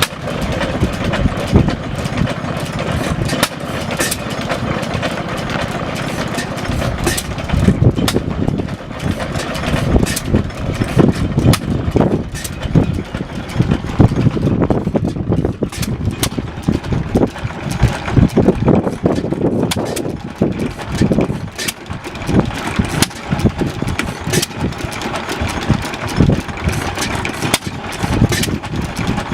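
Two home-built Brutus 3 hp hit-and-miss engines running together, their firing strokes giving sharp bangs at uneven intervals over the clatter of the engines coasting between firings.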